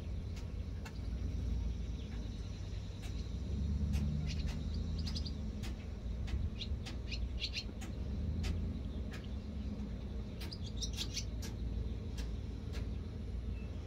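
Birds chirping in short bursts, three times, over a steady low rumble and scattered sharp clicks.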